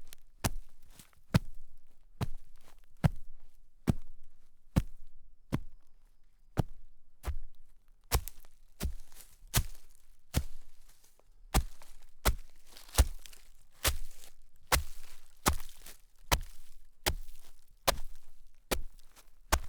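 Footsteps crunching through snow at a steady walking pace, a little more than one step a second.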